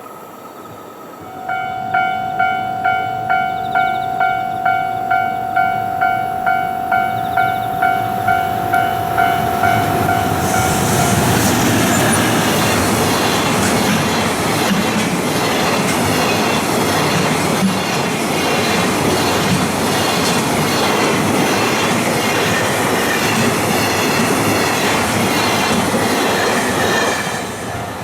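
Railway level-crossing bell ringing about twice a second, then a train passing for about sixteen seconds, its wheels clattering over the rail joints and covering the bell.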